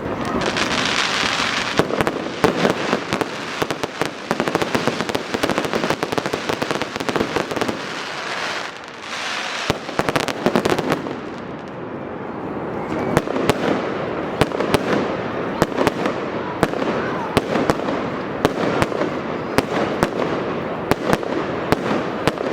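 Fireworks display: a dense run of sharp bangs and reports over continuous crackling and hissing, with a hissing burst in the first couple of seconds.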